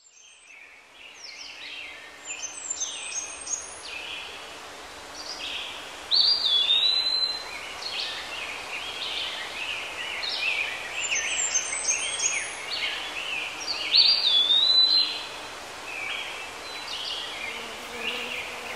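Several birds singing and calling over a steady background hiss, fading in at the start. A clear whistled note that rises and then holds is the loudest call, heard twice.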